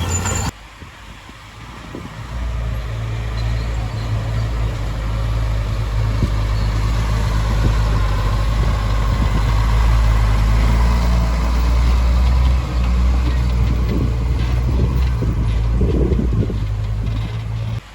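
Heavy diesel engine of a construction machine running steadily with a deep low rumble, growing louder about two seconds in, with light rattling near the end.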